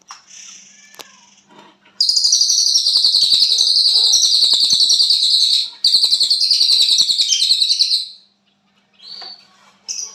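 Caged cililin songbird singing hard in the 'konslet' style: two long runs of very rapid, high, jumbled notes with only a brief break between them, starting about two seconds in and stopping abruptly near the end.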